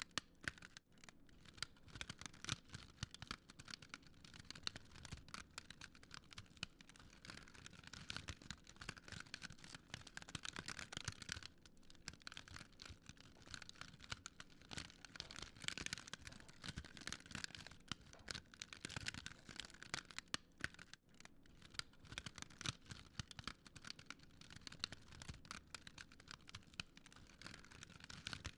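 Fire crackling, with a steady stream of small pops and snaps.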